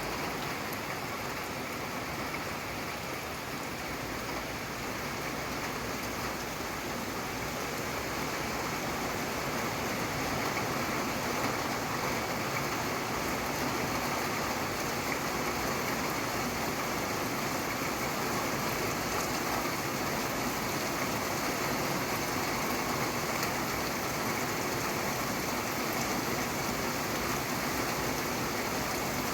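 Steady rain falling, an even hiss with no thunder, growing a little louder over the first ten seconds or so.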